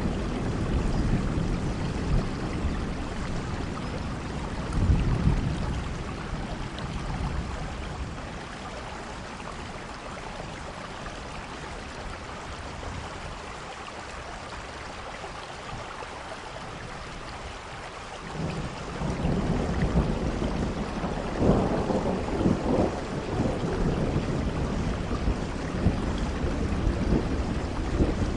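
Steady rain with rolling thunder. The low rumble dies away through the middle, then builds again about two-thirds of the way in, with heavier peals a few seconds later.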